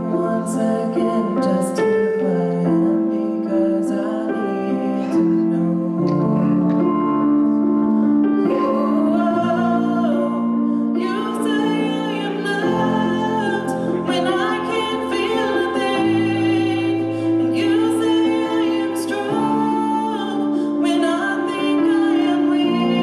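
Music for a church solo: piano accompaniment with a woman singing.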